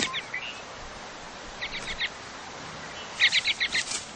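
A small songbird singing a short, quick trill of five or six sharp chirps that ends in a slurred note, repeated about every second and a half. The last trill, near the end, is the loudest.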